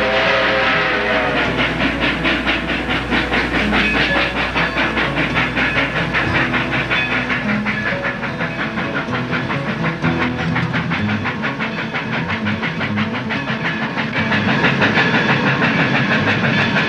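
Toy train running on a layout, with a rapid, even clicking clatter and steam-like hiss throughout. A whistle sounds briefly at the start.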